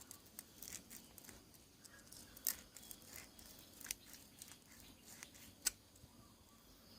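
Sandpaper scratching at a small brass pressure-lantern part, with scattered light clicks and three sharper clicks.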